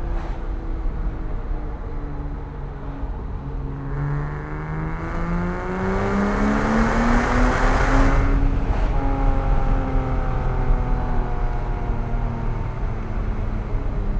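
Porsche 987.1 Cayman S's 3.4-litre flat-six engine pulling through a corner sequence. It eases off at first, then climbs steadily in pitch for about four seconds to a loud peak around eight seconds in. The pitch then drops sharply and the engine runs on lower, over a steady low road rumble.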